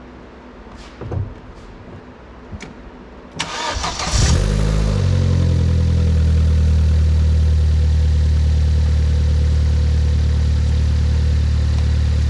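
Vauxhall Corsa VXR's 1.6-litre turbocharged four-cylinder petrol engine cranked by the starter and catching about four seconds in, its revs flaring briefly before settling into a steady idle. A few light clicks come before the cranking. At idle the owner hears no sign of a boost leak.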